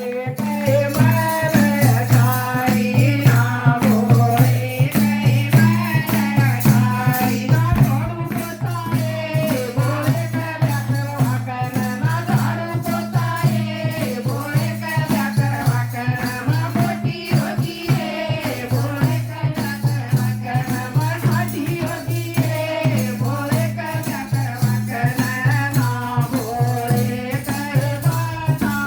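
Devotional bhajan: a woman singing a wavering melody over a steady drum beat, with a rattle-type percussion instrument shaking on the beat throughout.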